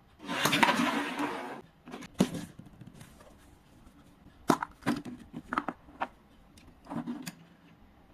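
A mystery egg's shell being crushed open by hand: a crackling, crunching burst lasting about a second, then a handful of sharp clicks and knocks as the pieces and the toy are handled.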